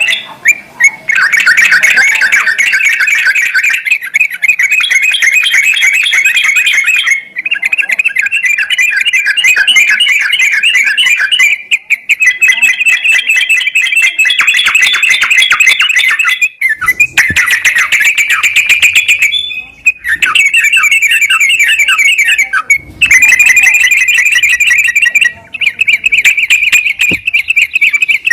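Yellow-vented bulbul (trucukan) song played as a lure: long runs of rapid, chattering notes lasting several seconds each, broken by short pauses. It is the bait song used to prompt a silent caged trucukan into singing.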